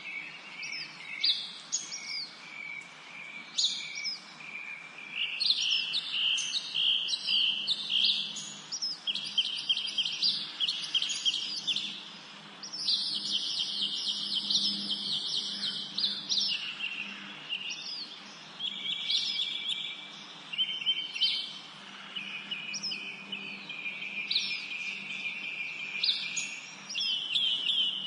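Several songbirds singing and chirping at once: rapid trills, repeated chirps and quick down-slurred whistles overlapping, with a faint low hum beneath.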